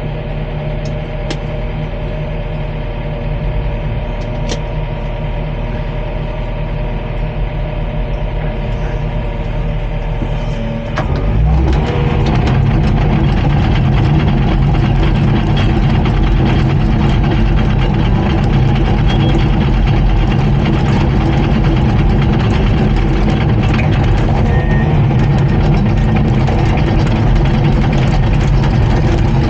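Komatsu D39PX bulldozer's diesel engine running steadily. About eleven seconds in it grows louder and rougher as it takes on load, then holds there.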